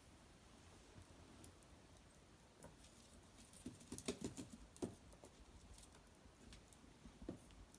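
Faint crackling of a small wood fire: scattered ticks and pops, with a brief cluster of louder pops about four seconds in.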